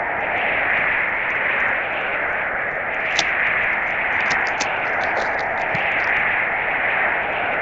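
Steady hiss of snowstorm wind, swelling and easing slowly, with many faint small ticks over it and one sharper tick about three seconds in.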